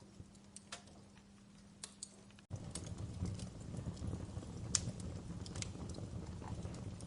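Wood fire crackling, with sparse sharp pops and snaps. About two and a half seconds in, the sound drops out for an instant and comes back louder, with a low rumble of flames under more frequent pops.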